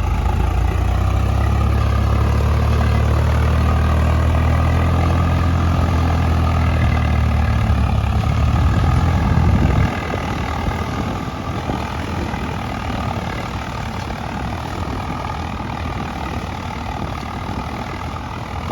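Swaraj 855 tractor's three-cylinder diesel engine running under load while pulling a two-bottom plough through the soil. About ten seconds in, the deep engine sound drops away suddenly and the running continues quieter.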